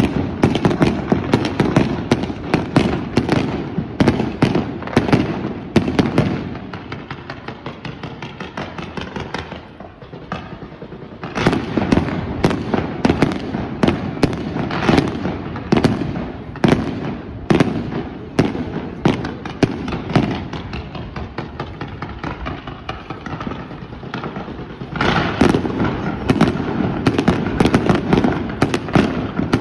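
Aerial fireworks going off in rapid succession: a dense barrage of bangs and crackling. It eases to a fainter crackle about seven seconds in, builds again a few seconds later, eases once more, and swells again near the end.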